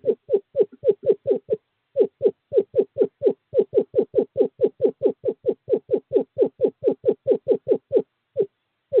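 Male screech owl calling to a female in courtship: a long, steady series of short, low notes, about three or four a second, each dropping slightly in pitch, broken by a brief pause twice.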